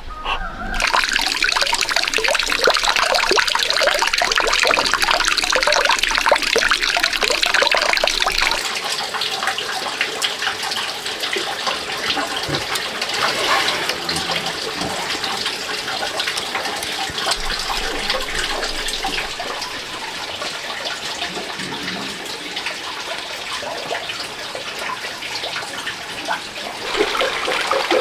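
Water running and splashing steadily, starting abruptly about a second in.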